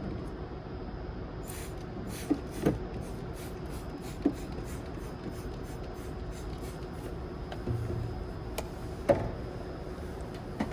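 A paintbrush scrubbing cleaner into engine-bay surfaces and a trigger spray bottle spraying it, heard as a run of short, quick strokes with a few sharp clicks in between.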